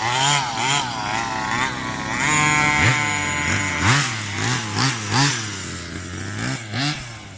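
Rovan Baja 45cc two-stroke petrol engine of a 1/5-scale RC car revving up and down repeatedly under throttle, with a run of quick rev blips in the middle; the sound fades near the end.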